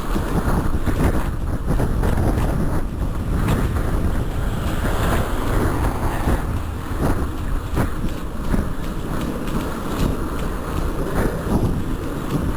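Wind buffeting the microphone of a cyclist riding into a strong, cold wind: a loud, unbroken rumbling hiss, with a few faint clicks.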